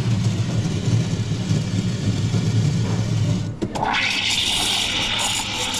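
Espresso machine at work: a low hum that stops about three and a half seconds in, then a steady hiss, like a steam wand, starting about half a second later.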